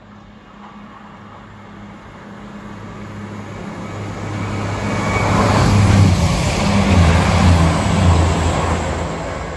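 Diesel train approaching and passing close by. Its low engine note and rushing wheel noise build to a peak about six to eight seconds in, then begin to fade.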